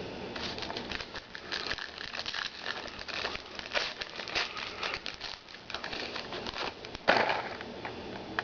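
Trading cards and their packaging being handled, giving crinkling and rustling with short scrapes, and a louder rustle about seven seconds in.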